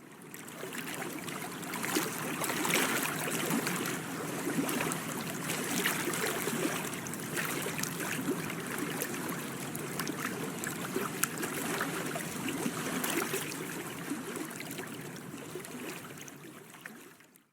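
Water lapping and trickling, with many small splashes. It fades in at the start and fades out near the end.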